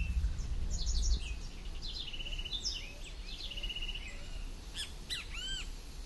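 Birds chirping outdoors: a string of short chirps and gliding whistled notes, with two quick trills in the middle, over a low background rumble that drops away about a second in.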